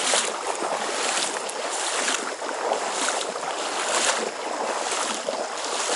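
Rushing, splashing stream water close to the microphone, a steady hiss with surges about once a second.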